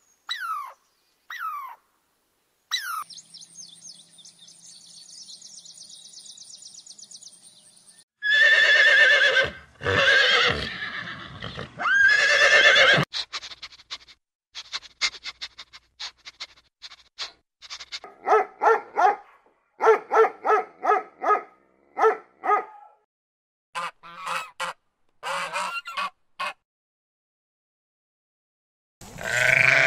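A run of different animal calls. First come a few short falling chirps and a long buzzy trill, then several seconds of loud calls and many short repeated calls. A goat bleats at the very end.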